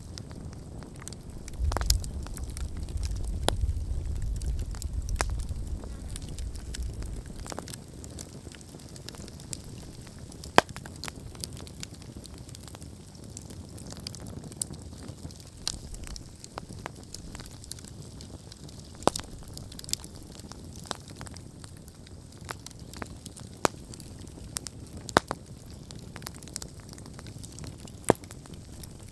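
Wood campfire crackling, with sharp pops scattered at irregular intervals. A low rumble sits under it for the first several seconds, then fades.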